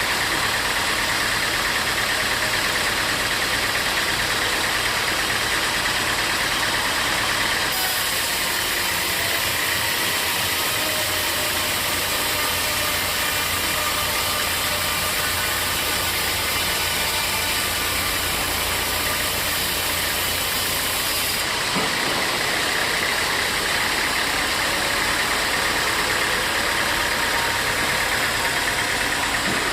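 Sawmill machinery running steadily. From about eight seconds in until about twenty-one seconds the sound changes, with more hiss up high and a steadier low hum.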